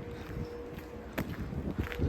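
Wind buffeting the phone's microphone as an uneven low rumble, under a faint steady hum and a single sharp click about a second in.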